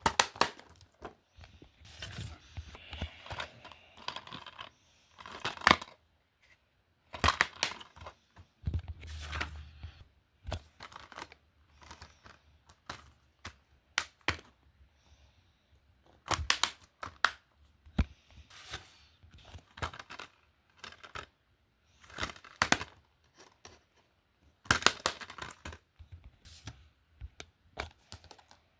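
Handling noise: irregular sharp clicks and knocks with crinkling and rustling between them, a few louder knocks, and a short low thud about nine seconds in.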